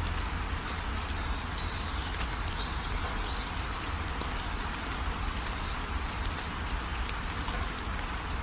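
Steady rain falling, with scattered drops ticking sharply and a low rumble underneath. A bird chirps faintly a few times, about two to three seconds in.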